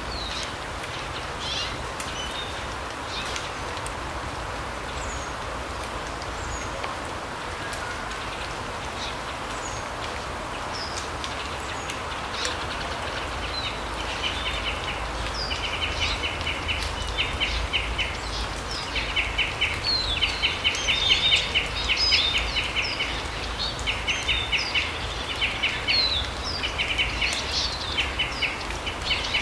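Forest birds calling over a steady background rush: scattered short chirps at first, then from about halfway on repeated bursts of rapid trills mixed with quick falling chirps.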